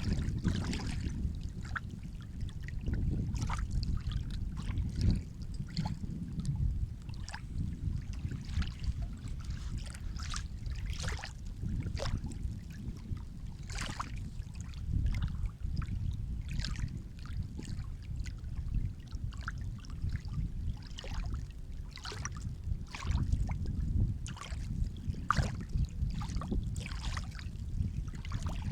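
Sea water lapping and splashing: a steady low rumble of moving water with many short splashes scattered through it.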